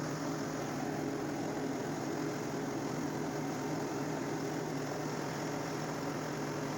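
LS tractor's diesel engine running steadily, a constant low hum with no change in speed.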